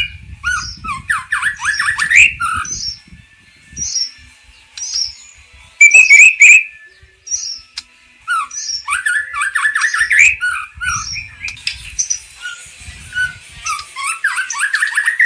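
White-rumped shama (murai batu) singing a varied song of rapid chattering runs and short whistled notes. There is a loud sharp phrase about six seconds in and brief pauses between bursts. The song is packed with the mixed-in phrases (isian) that keepers prize.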